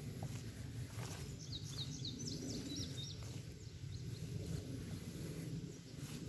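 A bird gives a quick run of about eight short, high chirps a second and a half in. Underneath is a steady low rumble of wind and rustling leaves.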